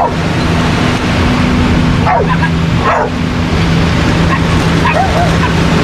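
Dogs barking, two sharp falling barks about two and three seconds in, then a few fainter yips, over steady surf and wind noise with a low steady hum.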